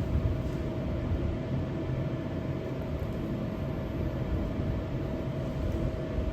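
A steady low rumble with a constant hum from a running machine, unchanging throughout.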